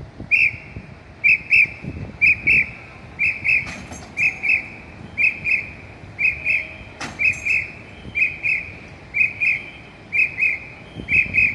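Signal whistle blown in short double blasts, a pair about once a second, in a steady rhythm of the kind used to pace a fire-rescue team's work. Two sharp metallic knocks are heard, one about four seconds in and one about seven seconds in.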